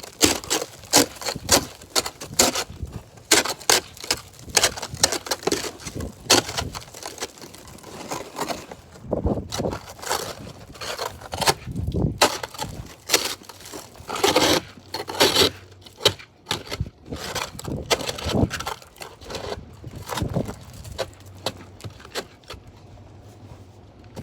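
Freezing-rain ice crust crunching and cracking in a quick, irregular series of sharp snaps, with a few short pauses.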